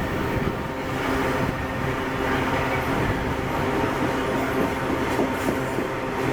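Heavily loaded freight train, hauled by AC44i and C44EMi diesel-electric locomotives, running under acceleration: a steady loud rumble with an even engine drone and rail clatter.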